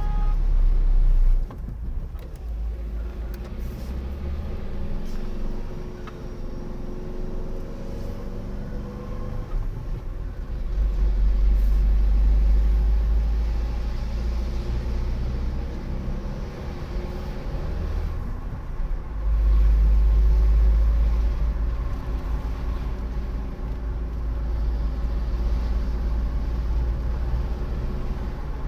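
A vehicle driving, heard from on board: steady engine and road noise with the engine note shifting up and down, and a heavy low rumble that swells twice.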